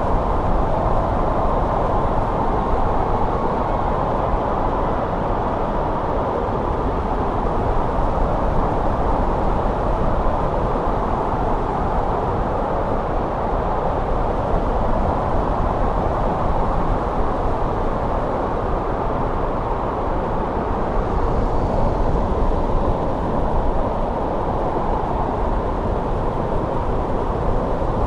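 Snowstorm wind blowing steadily: an even, low rushing noise with no distinct gusts or breaks.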